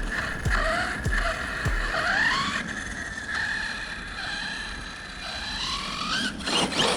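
Arrma Kraton 6S RC truck's brushless motor whining as it revs up and down, with rising sweeps in pitch as the throttle is squeezed, over gravelly tyre and drivetrain noise. A louder rush of noise comes near the end.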